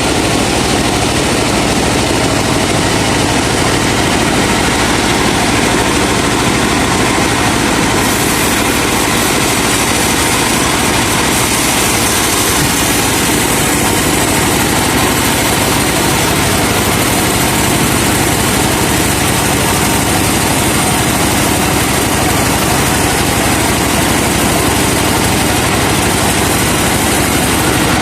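Truck-mounted sawmill running steadily, the truck's engine driving the log saw, with no break or change.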